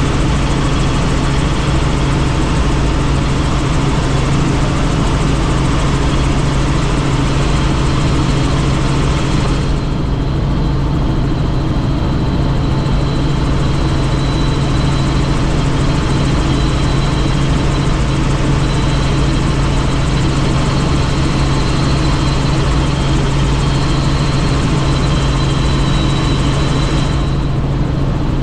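Helicopter in flight heard from the open-door cabin: a steady rotor and engine drone with a strong low hum. From about ten seconds in until near the end the high hiss eases and a thin high whine stands out.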